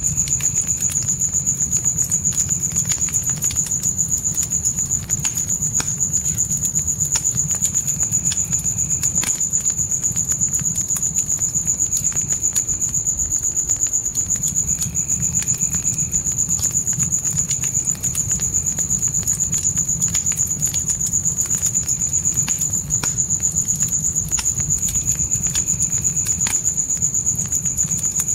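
Crickets chirping in a steady high trill over a crackling fire, with scattered sharp pops from the fire and a steady low rumble of the flames.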